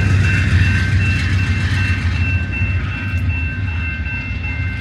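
Amtrak Borealis passenger train running out of the station: a loud low rumble that eases slightly, with thin steady high tones over it.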